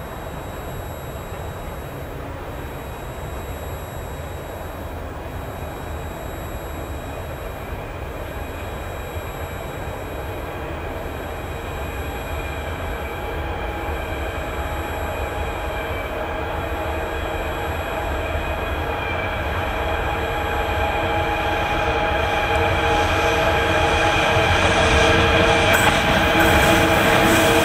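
2ES6 «Sinara» electric locomotive hauling a container freight train on its approach: a low rumble that grows steadily louder, with several steady whining tones coming in about halfway and getting stronger near the end.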